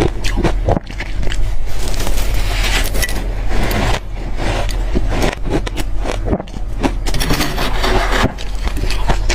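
Close-up chewing of hard crushed freezer ice: loud, dense crunching and cracking, with many short sharp crunches throughout.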